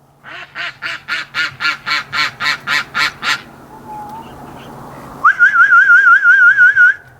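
A duck gives a rapid series of about a dozen even quacks. Then, about five seconds in, a person whistles a loud warbling note for nearly two seconds to call the ducks.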